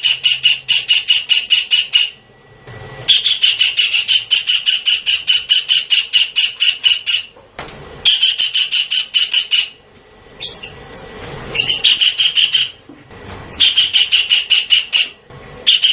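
Javan kingfisher calling: loud bouts of rapid, evenly repeated sharp notes, about seven a second, each bout lasting a few seconds with short breaks between, and a few sliding notes about two-thirds of the way through.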